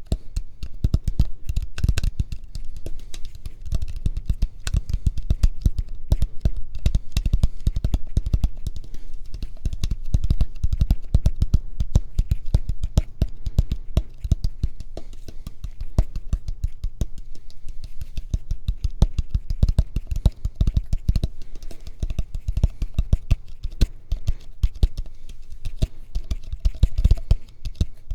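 ASMR fingertip tapping: fast, irregular taps and knocks, many a second, with deep thuds among them.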